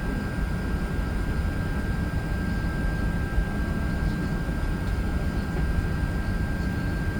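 Steady cabin noise inside an Airbus A380 on the ground: an even low rumble and airy hiss with a thin, unchanging high whine running through it.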